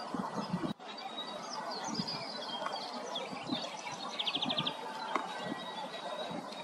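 Several songbirds singing and calling together in spring woodland, many short chirps and whistles overlapping, with one rapid, even trill of about ten notes lasting around half a second a little past the middle. Beneath them runs a dense, steady background hiss.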